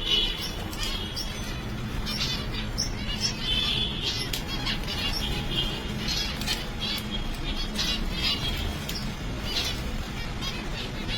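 Pet finches chirping, many short high calls in quick succession, over a steady low hum.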